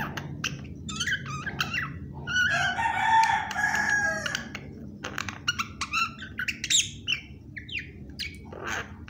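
Pet myna calling: a run of short whistles and chirps, with one longer, harsher call of nearly two seconds about two and a half seconds in.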